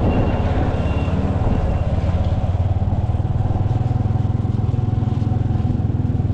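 A motor vehicle's engine running steadily with a fast low pulse.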